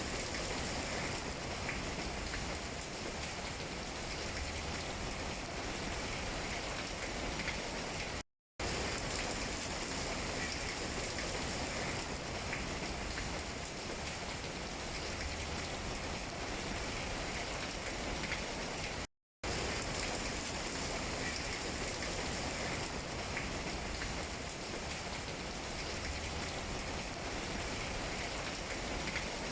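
Steady rain falling on tree leaves: a dense, even hiss with scattered drop taps. It cuts out to silence for a split second twice, about 8 and 19 seconds in.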